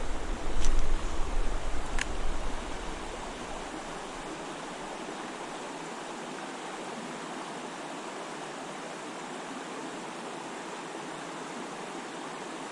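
Steady rushing of a small creek's running water. For the first few seconds a low rumble rides over it, with two sharp clicks, about half a second and two seconds in.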